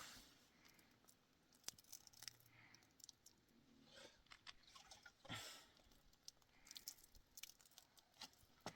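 Near silence broken by scattered faint clicks and crunches, like small objects being handled, with a soft swell of rustling about five seconds in.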